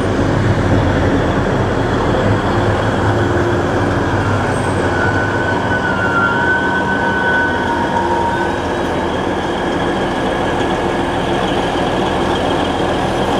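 Two-car diesel multiple unit pulling into a station and braking, its engines running steadily under the rumble of the wheels. A thin brake squeal sounds for a couple of seconds midway.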